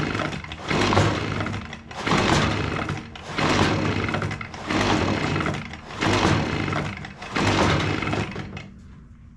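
Echo PB-265L backpack blower's recoil starter being pulled over and over, about seven pulls roughly one every 1.3 seconds, with the engine not firing. Its air filter is soaked in fuel, which the mechanic takes to be probably why it won't start.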